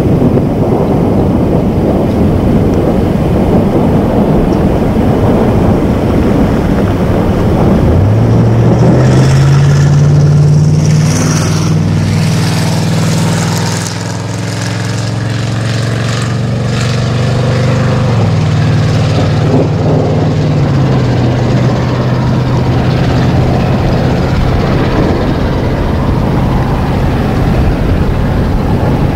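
Steady low rumbling noise; about eight seconds in, a vehicle engine starts and keeps running, its pitch rising quickly and then holding steady. The engine settles lower in two steps, near eighteen seconds and again a few seconds later.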